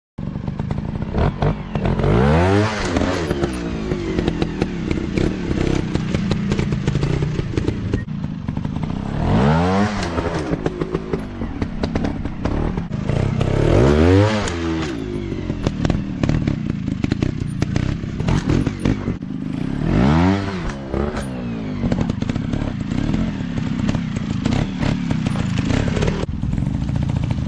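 Dirt bike engines revving hard over and over, each rev rising and then falling in pitch, about five times, with clattering and knocks between them as the bikes work over rough ground.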